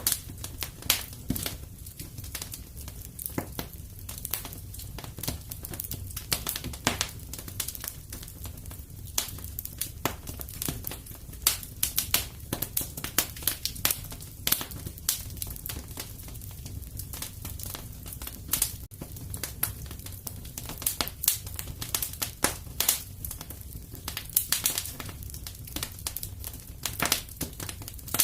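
Wood fire crackling and popping in a fireplace: irregular sharp snaps over a steady low rumble of the flames.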